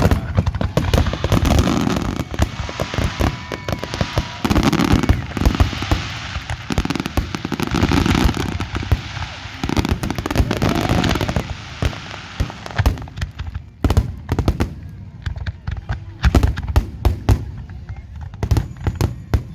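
Fireworks display: a dense run of bangs and crackling bursts for the first two-thirds, thinning out to separate single bangs near the end.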